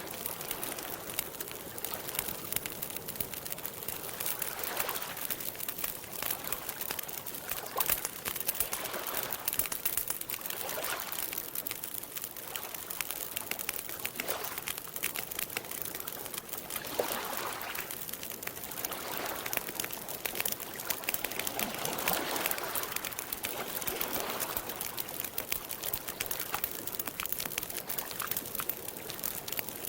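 Campfire crackling with a dense run of small pops, over gentle lapping of lake water that swells softly every second or two.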